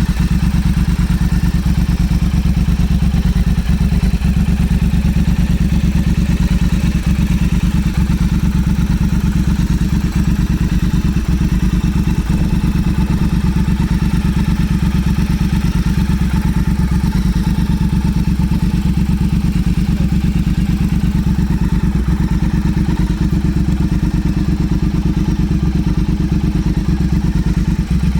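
Motorcycle engine running steadily at idle, a fast, even train of firing pulses with no revving.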